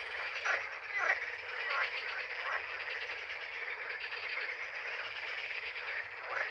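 A dense chorus of frogs calling from the reed marsh, continuous and crackling, with a few louder individual calls standing out above it.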